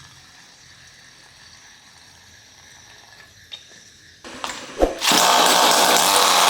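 Homemade mini gasoline engine being started: a few knocks and a sharp thump, then about five seconds in it fires up and runs loud and steady.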